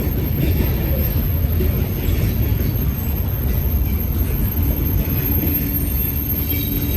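BNSF freight train rolling past, a steady heavy rumble of wheels on rail, with a faint steady whine from the wheels coming in about two-thirds of the way through.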